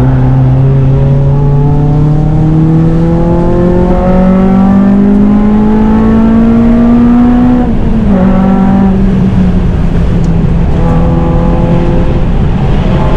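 Honda Civic Type R's four-cylinder K-series engine, fitted with a cat-back exhaust, pulling hard on track: the engine note climbs steadily for about seven and a half seconds, drops suddenly at a gear change or lift, then holds and starts to climb again near the end.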